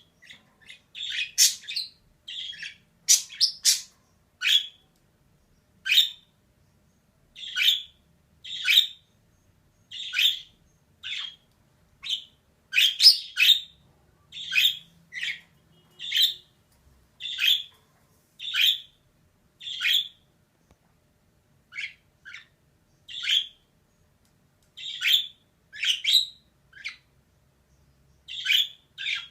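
Female budgerigar giving short, sharp chirps and squawks about once a second, sometimes in quick clusters of two or three.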